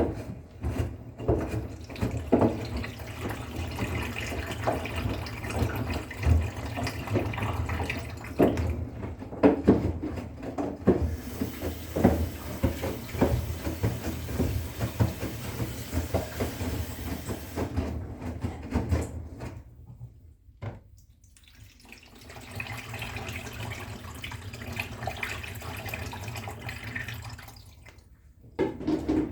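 Bosch Serie 6 washing machine running, with water rushing in and a steady low hum, scattered with small knocks. The sound drops away briefly twice in the second half.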